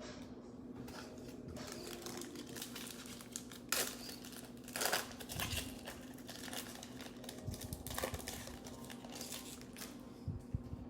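Trading-card pack wrapper crinkling and rustling as a pack is torn open and handled, with sharper crackles about four and five seconds in.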